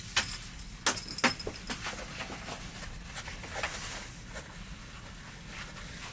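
Small hard objects clinking and clattering as they are handled: a few sharp clicks in the first two seconds, then lighter ticks, over a steady low rumble.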